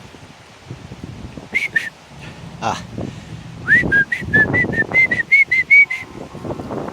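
Short whistled notes: two about a second and a half in, then a quick run of about a dozen, roughly five a second, all at much the same high pitch. Low wind or handling noise runs underneath.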